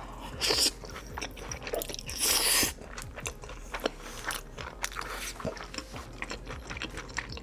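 Close-miked eating: a person biting and chewing food with a crunch, with many small wet clicks and two louder crunching bites about half a second and two seconds in.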